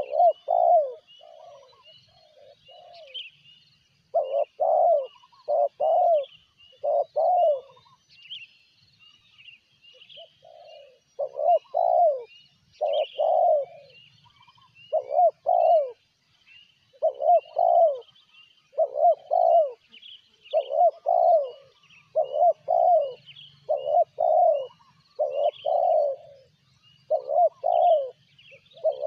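Spotted doves cooing: short coo notes in quick runs of two to four, repeated again and again, with a gap of a few seconds about a third of the way in. Small birds chirp faintly and steadily in the background.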